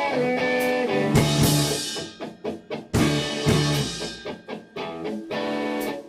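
Live band music: electric guitar chords over a drum kit, with cymbal crashes about one and three seconds in.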